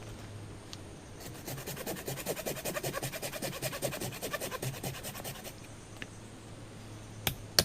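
Rapid scratching or scraping strokes, many to the second, lasting about four seconds, then two sharp clicks near the end.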